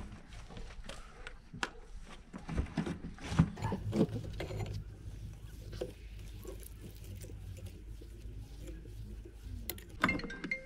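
Metal engine parts and hand tools being handled during an engine teardown: a string of light knocks and clicks with some rubbing in between.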